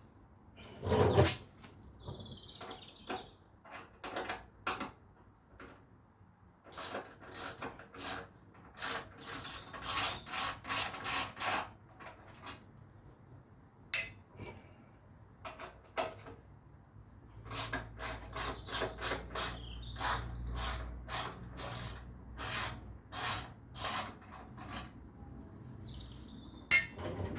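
Ratchet with a T25 Torx bit clicking in runs of short strokes, undoing the screws that hold the motorcycle's exhaust heat shields, with scattered knocks and clinks of tool on metal between the runs.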